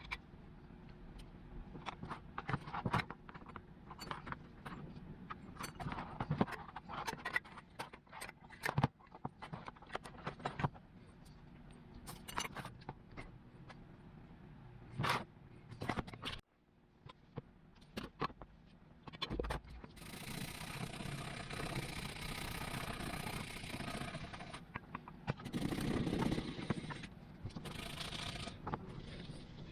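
Scraping, clicks and knocks from handling and working on an old brass fire extinguisher. A denser stretch of steady scraping runs for several seconds in the second half.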